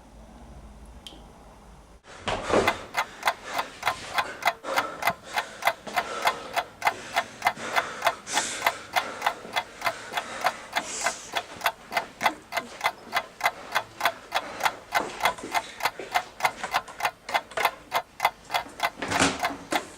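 Steady, even ticking that starts about two seconds in, roughly two and a half sharp ticks a second.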